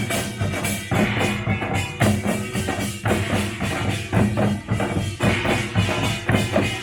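Korean pungmul (nongak) percussion band playing a dense, driving rhythm on drums and clanging metal gongs.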